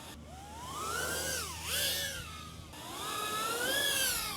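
Tiny FPV drone's brushless motors whining, the pitch rising and falling again and again as the throttle is worked.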